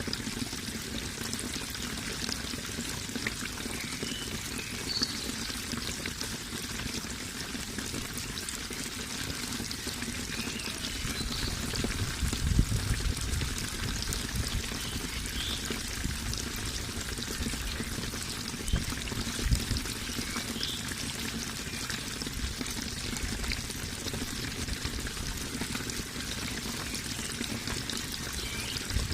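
Water flowing and pouring steadily, an even rushing sound with low rumbles, with faint short high chirps now and then.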